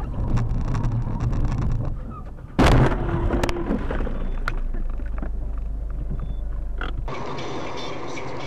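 Car road noise, then a sudden loud bang about two and a half seconds in, followed briefly by a short steady tone. Near the end the noise changes abruptly to a different, steadier road rumble.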